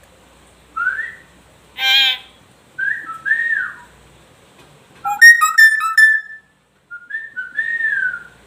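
Hill myna whistling: several short clear whistles that slide up and down, a harsher call about two seconds in, and a quick stuttering run of notes around the five-second mark.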